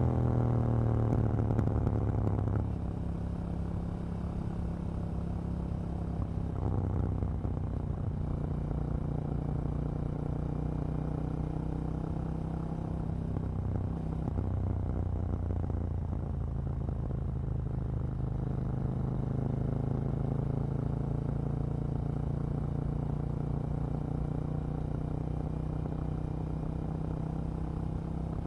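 KTM 790 Duke motorcycle's parallel-twin engine: its revs fall away over the first couple of seconds, then it runs steadily at low revs with small slow rises and falls in pitch.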